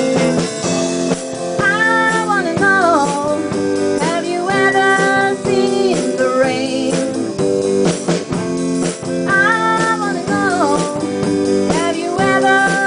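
A rock song with a sung vocal line over guitar and drums. The singing comes in phrases that bend in pitch, about two seconds in and again around nine seconds.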